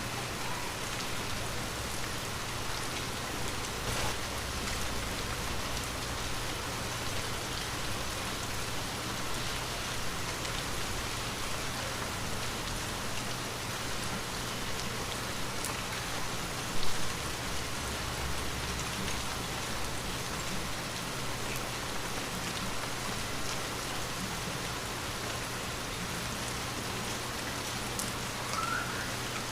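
Light rain falling steadily: an even hiss with scattered drop ticks, and a single brief low thump about halfway through.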